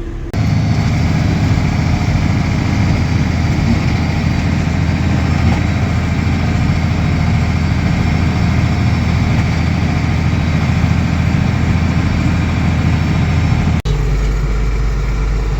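Tractor engine running steadily with a tractor-mounted snowblower blowing light, powdery snow. Near the end the sound changes abruptly to a quieter, steadier low engine hum.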